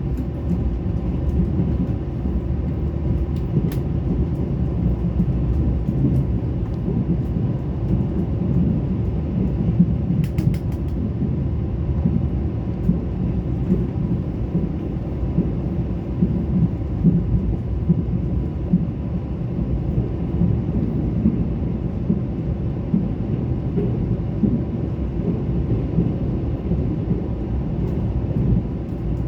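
Mugunghwa-ho passenger train running at steady speed, a continuous low rumble from the wheels and track, with a few faint clicks about ten seconds in.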